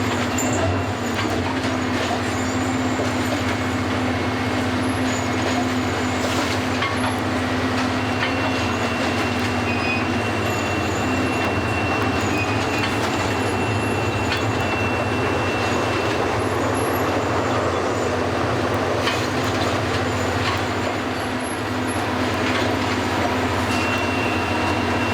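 Track renewal train at work: a steady mass of machinery and diesel engine noise with a constant low hum, and a thin high squeal that comes in about a third of the way through, fades, and returns near the end.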